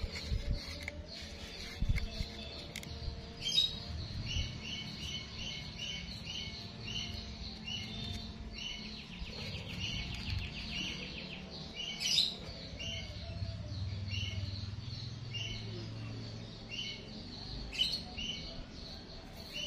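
Birds chirping in short, quickly repeated high notes, with three sharp knocks spaced through.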